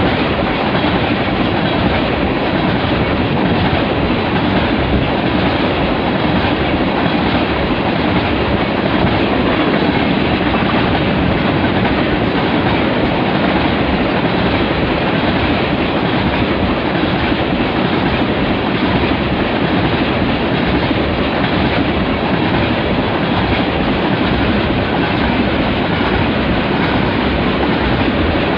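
Freight train of tank cars rolling past close by: steady, loud noise of steel wheels running on the rails.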